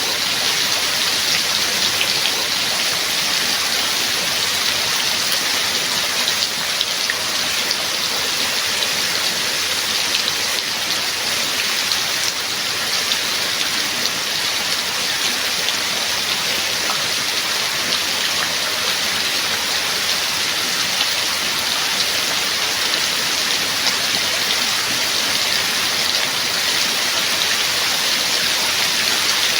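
Steady rain falling, an even hiss of many small drop hits with no break or change.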